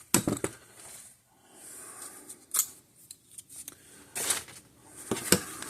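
A few sharp clicks and brief metallic scrapes from hand tools and drill bits being handled, with quiet gaps between them; no drill is running.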